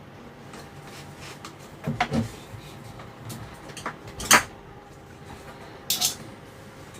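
A few separate knocks and clunks from objects being handled on a workbench. There are two close together about two seconds in, the sharpest and loudest just past four seconds, and a last one about six seconds in.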